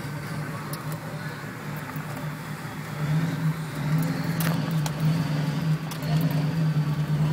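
Car engine running steadily, heard from inside the cabin as the vehicle drives along a dirt trail, getting louder about three seconds in, with scattered sharp clicks.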